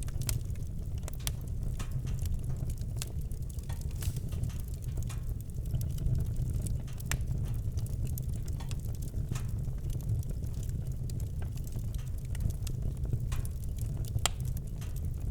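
Campfire crackling: irregular sharp snaps and pops of burning wood over a steady low rumble.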